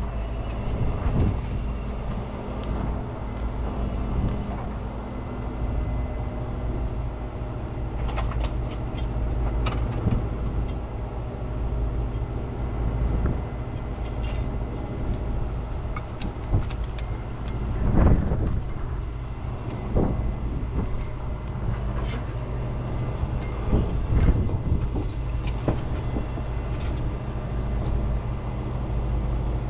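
Heavy wrecker's diesel engine running steadily under hydraulic load as its boom is raised and extended, with sharp metal knocks and clanks now and then, the loudest about 18 seconds in.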